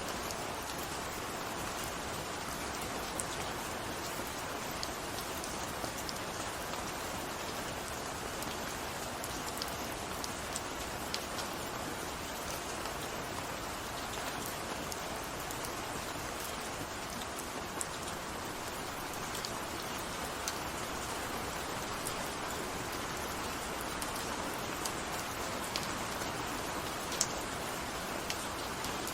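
Steady rain falling and pattering on a surface, an even hiss with scattered sharper drop ticks.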